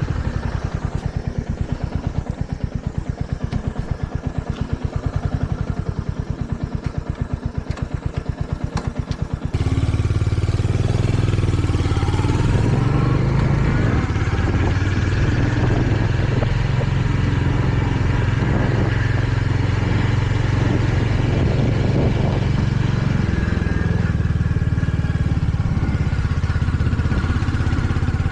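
Royal Enfield Hunter 350's single-cylinder engine running on the move, its firing pulses distinct at first. About a third of the way in the sound turns abruptly louder and steadier, with more rush and hiss over the engine.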